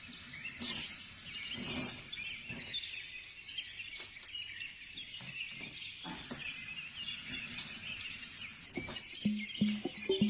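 Pet birds chirping and twittering, many quick high chirps overlapping, with a few clicks among them.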